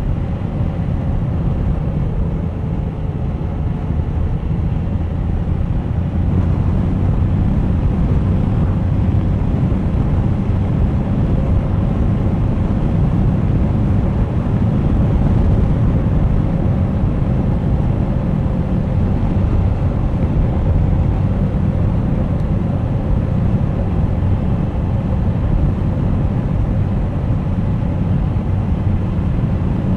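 Suzuki GSX1250FA motorcycle's inline-four engine running at a steady cruise, heard with a heavy low rumble of road and wind noise; it gets a little louder after about six seconds and then holds steady.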